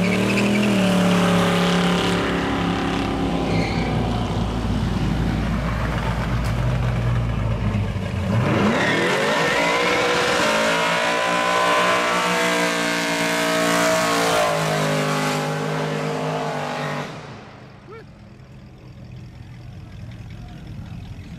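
Classic car engines at full throttle during burnouts. First one engine runs loud at high revs. Then a second engine revs up in a rising sweep and holds high revs for about eight seconds before dropping off abruptly to quieter traffic near the end.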